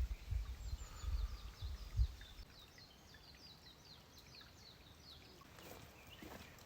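Small bird chirping: a quick run of short, falling high notes, about three or four a second, for several seconds. Low dull thumps sound in the first two seconds.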